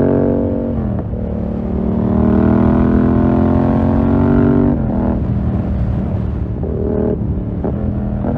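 2020 Yamaha MT-07's 689 cc parallel-twin through a full SC-Project 2-1 exhaust, accelerating hard. The pitch dips about a second in, climbs steadily for about three and a half seconds, then falls as the throttle closes, with short blips of throttle after.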